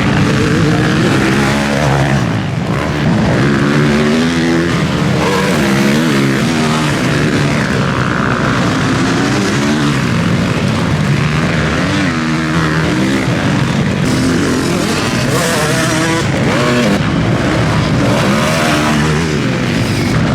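Several motocross bikes racing, their engines revving up and dropping back over and over as the riders open the throttle and shift gears.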